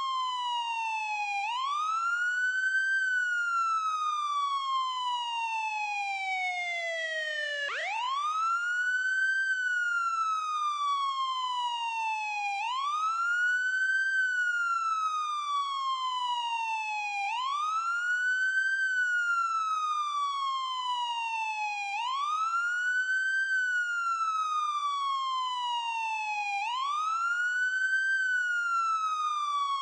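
Ambulance siren wailing: each cycle is a quick rise in pitch followed by a slower fall, repeating about every four to five seconds. About eight seconds in, one fall sinks lower than the rest before the pitch climbs again.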